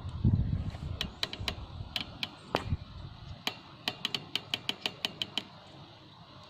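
A run of more than a dozen sharp, ringing clicks, spaced irregularly at first and then quicker, about five a second, before stopping about five and a half seconds in.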